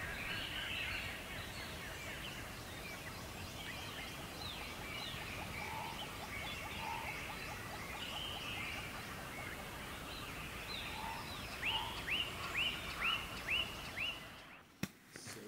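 Several wild birds singing over a steady background hiss, with many short chirps and whistles; near the end one bird gives a run of six quick down-slurred notes, the loudest sound. The birdsong cuts off suddenly about a second before the end, followed by a few faint clicks.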